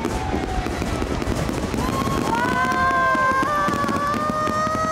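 Fireworks display: a dense, continuous crackle of bursts and pops. From about two seconds in, several long, steady high tones sound over it.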